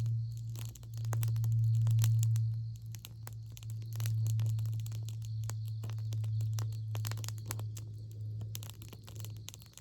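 Campfire wood crackling and snapping in quick, irregular pops, over a steady low hum.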